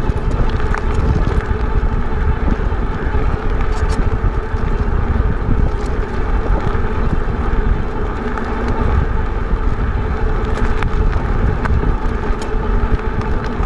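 Wind buffeting the microphone of a moving e-bike, a steady rushing noise heavy in the low end, with a few faint clicks from the bike.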